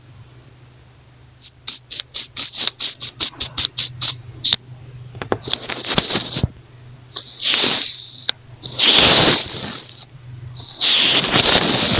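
Makeup brush worked against an earphone microphone: a quick run of about a dozen short, light strokes, then four long brushing sweeps, the later ones loud and close. A faint steady low hum runs underneath.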